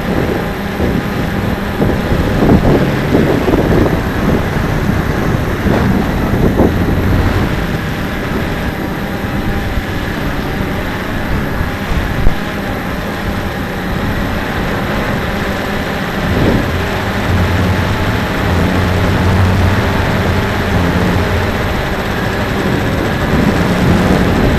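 Cheerson CX-20 quadcopter's motors and propellers running in flight, with strong wind buffeting and rumbling over the microphone.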